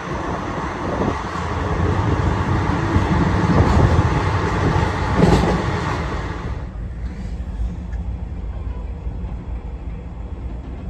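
Moving train heard from on board: a loud, steady rumble of wheels on the rails with a single clank about five seconds in. About two-thirds of the way through the sound abruptly turns quieter and duller.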